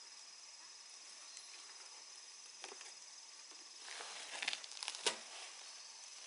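Crunching and rustling of dry outdoor litter, a few scattered crunches at first, then a denser stretch from about four seconds in with one sharp snap. Behind it runs a faint, steady, high-pitched insect drone.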